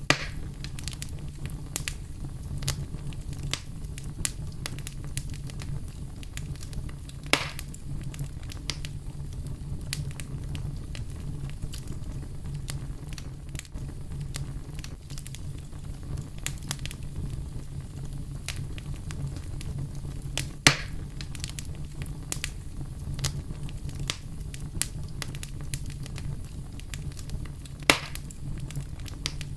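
Fireplace fire crackling with many small snaps over a steady low rumble, with three louder pops.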